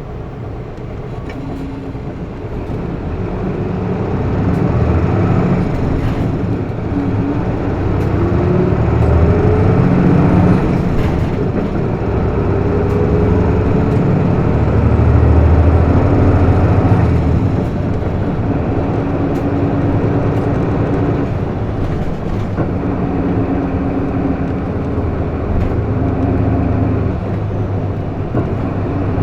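Interior running sound of a Hino Blue Ribbon II city bus with a manual gearbox: the diesel engine and road noise build as the bus accelerates, with rising engine pitch, then ease off about two-thirds of the way through before it runs on steadily.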